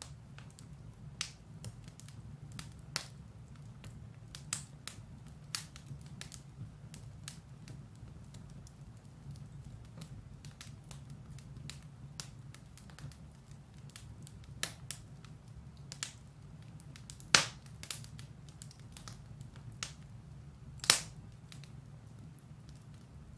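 Firewood burning in a fireplace: irregular crackles and snaps over a steady low rumble of the flames, with two louder pops about two-thirds of the way through.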